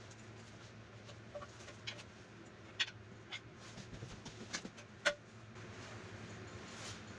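Irregular sharp metallic clinks and clicks as tools and steel parts of an excavator's ram mounting are handled while a shim and bolt are fitted. A few of the clinks ring briefly, over a steady low hum.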